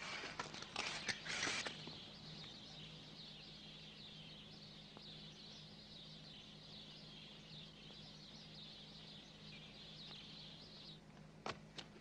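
Faint, continuous high twittering of small birds, after a brief rustle in the first second or two. A few sharp taps, footsteps, begin near the end.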